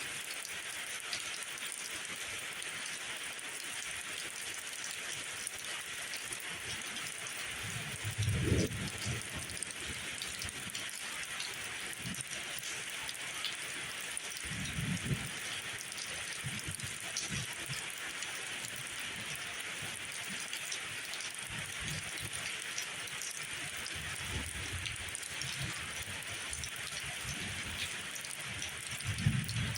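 Steady rain falling, an even hiss, with three brief low thumps or rumbles: about eight seconds in, about fifteen seconds in, and near the end.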